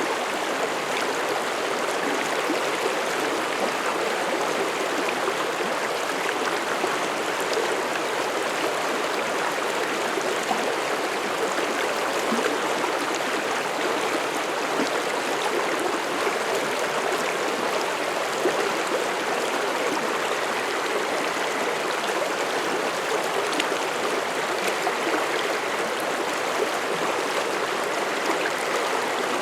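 Mountain stream running steadily through a forest, an even rush and babble of flowing water.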